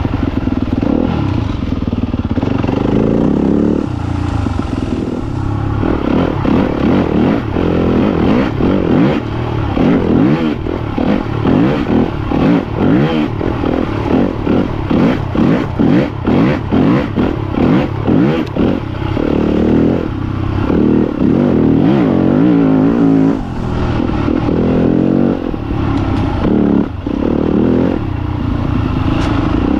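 Yamaha YZ250FX dirt bike's single-cylinder four-stroke engine revving up and down on a trail ride. For about ten seconds in the middle the throttle blips on and off quickly, about twice a second, then the revs settle steadier.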